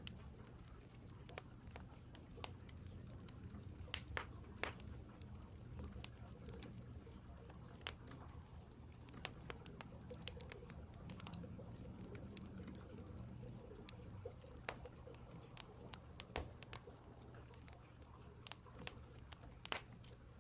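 Sparse, irregular clicks and taps of computer keyboard typing mixed with crackling from a wood fire, over a steady low background rumble.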